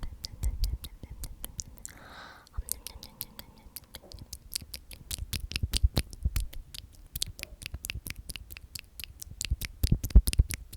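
A close-miked run of rapid, crisp clicks and taps, several a second, with a brief breathy whisper about two seconds in.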